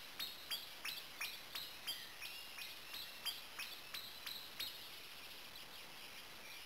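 A bird calling in a fast, even series of about fourteen sharp, downslurred notes, roughly three a second, that stops about four and a half seconds in.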